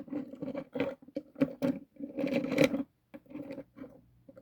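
Handling noise from a diecast toy tractor being turned over in the hand: irregular rubbing and small clicks in short bursts.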